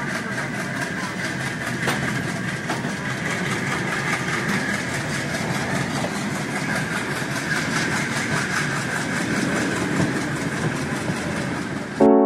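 Express passenger train coach running on the rails, heard from its open doorway as it leaves the station: a steady rumble and rush of wheels on track with faint clicks. Piano music cuts in right at the end.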